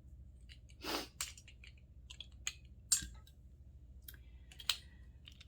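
Scattered small clicks and taps of metal doorknob parts and hand tools being handled, with a short scraping rustle about a second in.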